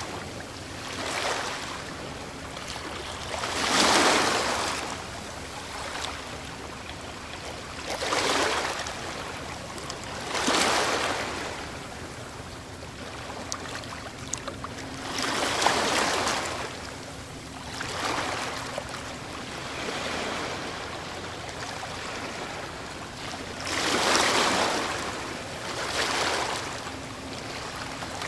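Ocean waves breaking and washing up, each wave a swell of noise lasting a second or two, about every two to five seconds over a steady wash of surf.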